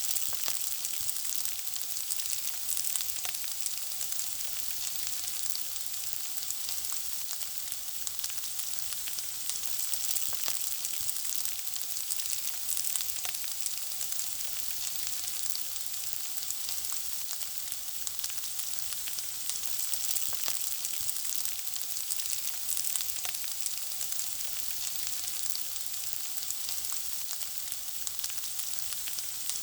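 Food frying in hot oil: a steady sizzle with scattered small pops and crackles.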